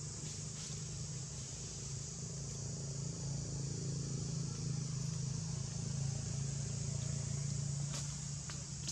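Outdoor ambience: a steady high insect buzz over a low engine-like hum that swells a little in the middle, with a few faint clicks near the end.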